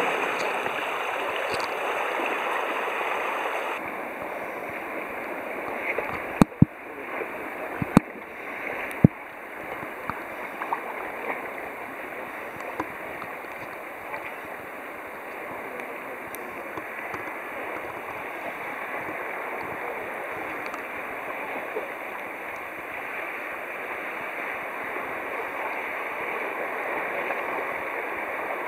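Moving water: a steady rushing and lapping, with a few sharp knocks about six to nine seconds in.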